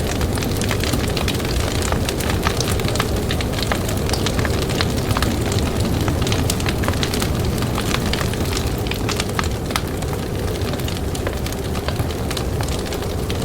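Campfire crackling, with many small sharp pops scattered throughout, over a steady low rush of blizzard wind.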